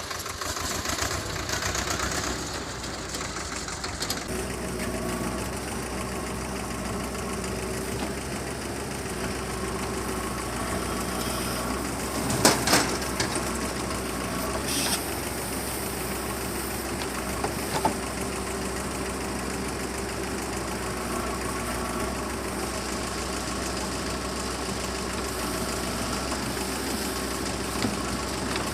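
Diesel engine of a JCB 3DX backhoe loader running steadily while it works. There is a sharp knock about twelve seconds in and a lighter one near eighteen seconds.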